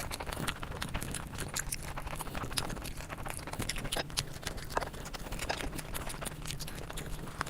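Close-miked eating: wet chewing and mouth smacking, with irregular sharp clicks several times a second over a low steady hum.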